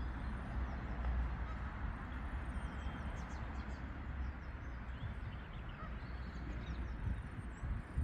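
Birds calling in short, faint high chirps over a steady low rumble and hiss.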